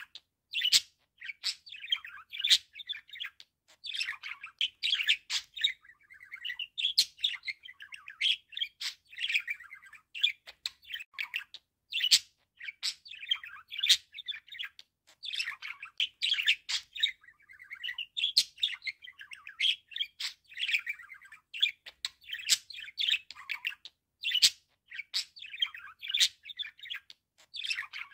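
Budgerigar warbling and chattering without pause: rapid high chirps, sharp clicks and squeaky trills, broken only by brief gaps.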